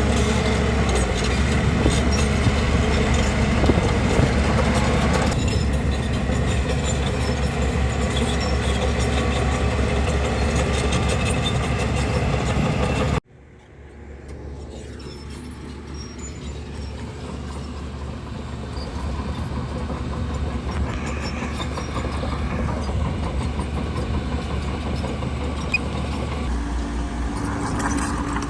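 Heavy earthmoving machine's diesel engine running steadily at work. About halfway through the sound cuts out abruptly and comes back quieter, slowly rising again.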